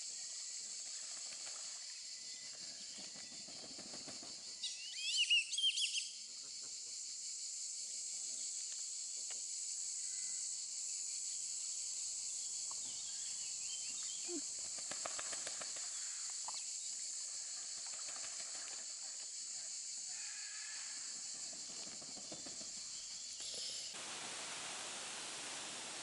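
Steady high outdoor hiss, with a short flurry of bird chirps about five seconds in.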